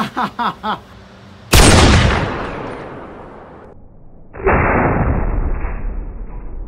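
Two shots from a Barrett M82 .50 BMG rifle about three seconds apart, each a sudden loud blast with a long echoing tail inside an indoor range booth.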